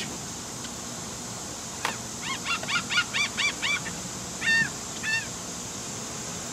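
A bird calling outdoors: a sharp click, then a quick run of about eight rising-and-falling calls, then two more a little later.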